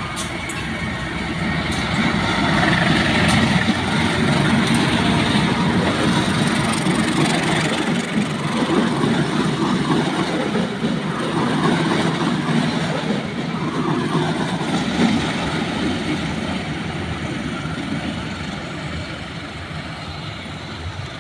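Train running, a heavy steady rumble that builds over the first few seconds, holds, then slowly fades near the end.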